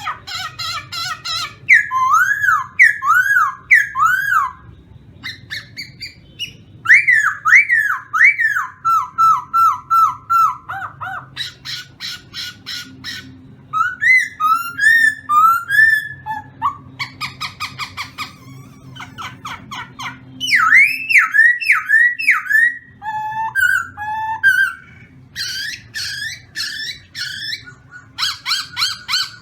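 A songbird singing a loud, varied song: runs of repeated slurred whistled notes, rapid trills and fast chattering phrases, separated by short pauses.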